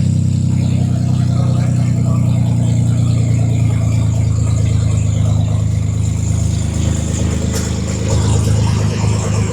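Nissan GT-R engine idling steadily with a deep, low note.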